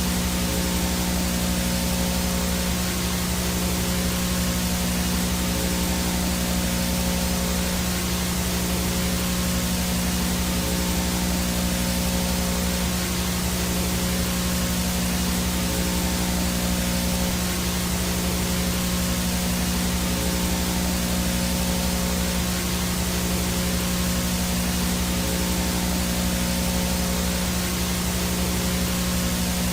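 VHS no-signal static: a steady hiss with a low buzzing hum underneath, unchanging throughout.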